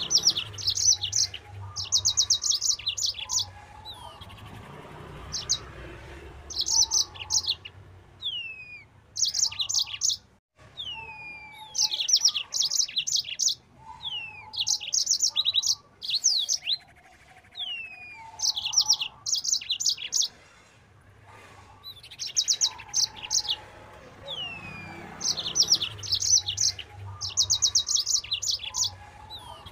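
Yellow-fronted canary (Mozambique canary) singing loudly and continuously. It sings bursts of very fast, high trilled notes, many led by a short falling whistle, and a new phrase comes every couple of seconds.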